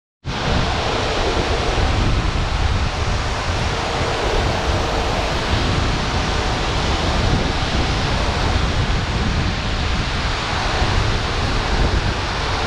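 Steady rushing of a waterfall, with a strong low rumble, starting abruptly just after the beginning.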